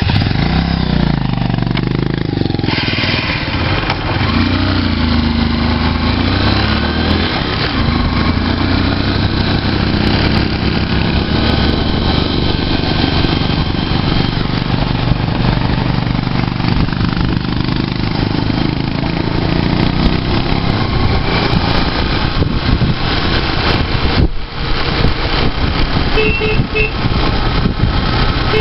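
Motorcycle engine running while riding. Its pitch rises and falls through the first several seconds, then it holds fairly steady.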